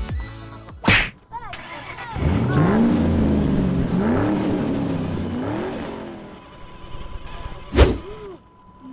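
An engine revving up and down several times, set between two short, sharp whooshing sweeps, one about a second in and one near the end.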